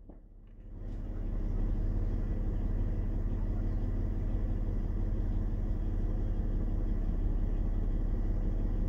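Parked car's engine idling, a steady low rumble heard from inside the cabin.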